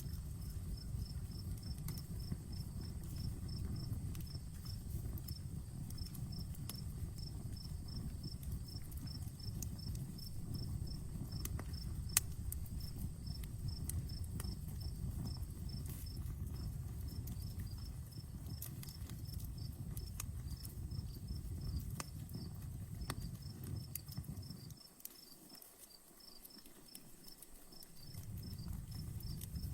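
Campfire crackling, with scattered pops and one sharp crack about twelve seconds in, over a low rumble that drops away for a few seconds near the end. A cricket chirps steadily, about four chirps a second.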